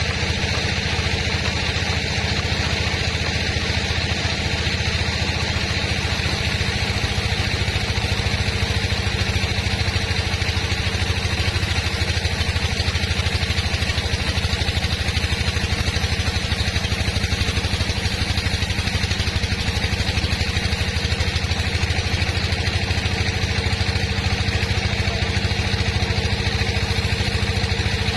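Sawmill machinery running steadily, a constant engine-like drone with a fast even pulse and a thin steady whine above it.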